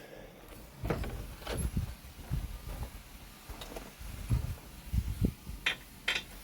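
Irregular knocks, clanks and thumps of hand tools and sockets being handled while working on a pickup truck's front wheel, with a few sharper metallic clicks about a second and a half in and near the end.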